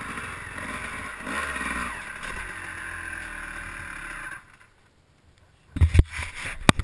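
Steady running of a motor vehicle during a ride, which cuts off suddenly a little over four seconds in. After a short near silence come several loud knocks.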